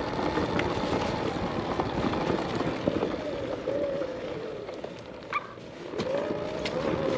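Arctic Leopard XE Pro electric dirt bike being ridden over rough trail: the electric motor's faint whine rises and falls with the throttle, over steady noise from the tyres on dirt and rock. A brief sharp knock comes about five seconds in.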